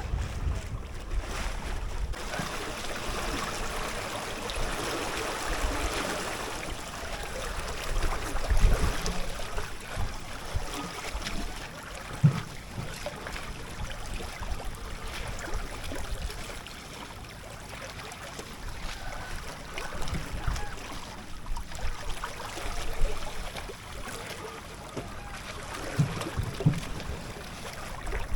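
Water rushing and splashing along the hull of a small sailboat under way, with gusts of wind on the microphone and a few short knocks.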